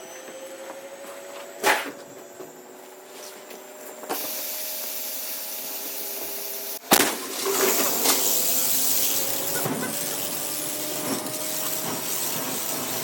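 Washing machine drum spinning up on its mains-wired motor, a rising whine, with a louder steady hiss from about four seconds in. Just before seven seconds a single sharp bang as the petrol vapour in the drum is ignited by a spark plug, followed by a steady noisy rush while the drum keeps turning.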